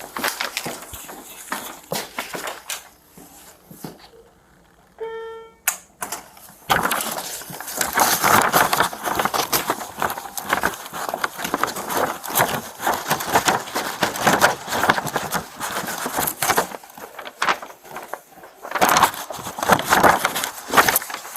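Body-worn camera microphone knocking and rustling against clothing as the wearer walks, with footsteps. About five seconds in, a short electronic beep sounds during a brief quiet spell, then the rustling comes back louder and denser.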